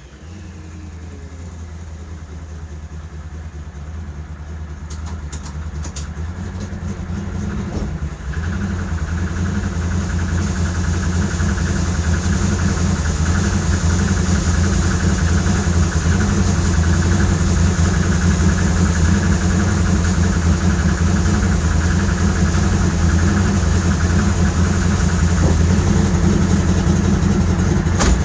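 Twin-turbo Hellcat Charger's V8 engine idling with a steady drone that grows louder over about the first ten seconds, dips briefly, then holds steady.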